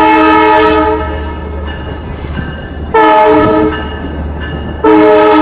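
Long Island Rail Road train horn sounding a chord of several pitches at a level crossing: a long blast, a short one, then another long one. These are the closing blasts of the long-long-short-long grade-crossing signal. A steady low rumble runs underneath.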